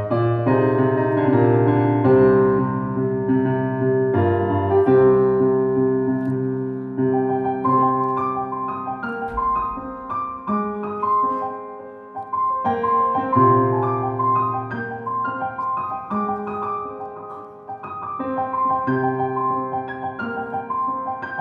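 Solo piano playing a slow passage of held chords under a melody, with the chords changing every second or two.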